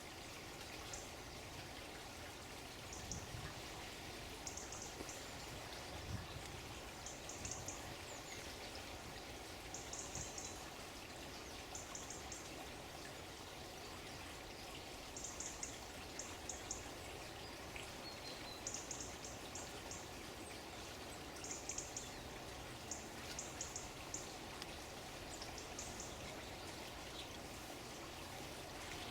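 Steady flow of running water, with short high chirping phrases from birds recurring every second or two.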